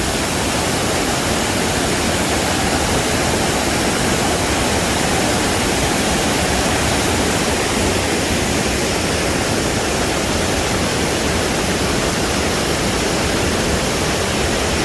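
A waterfall and fast, raging river water rushing steadily.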